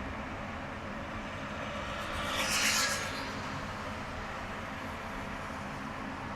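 Steady road and engine noise of a car driving on a highway. A brief hiss swells and fades about two and a half seconds in.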